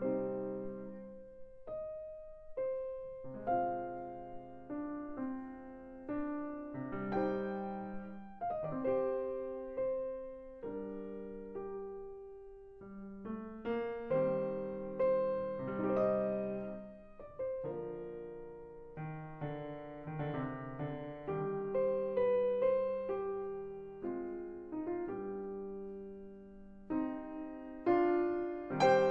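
Solo acoustic piano playing a classical piece in slow, held chords and melody notes, beginning just after a short silence.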